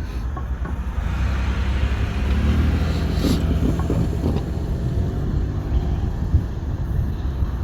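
Norfolk Southern freight train with diesel locomotives, giving a steady low rumble, with a cluster of knocks and clacks from the wheels and a brief hiss about three seconds in.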